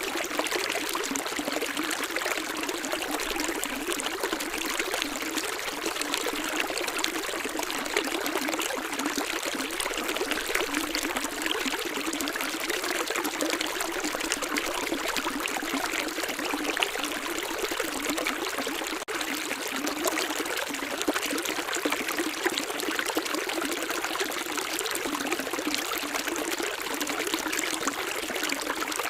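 Running water, a steady splashing flow without a deep rumble, with a split-second dip about two-thirds of the way through.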